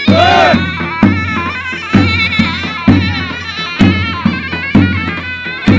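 Turkish folk dance music: a shrill, reedy zurna melody over a davul bass drum beating heavily about once a second, with lighter strokes in between.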